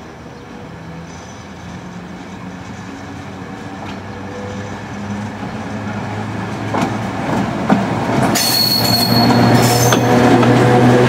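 Chichibu Railway Deki 500-class electric locomotive with its train approaching and growing steadily louder, a low steady hum under wheel clacks over rail joints. A high wheel squeal rises briefly about eight seconds in.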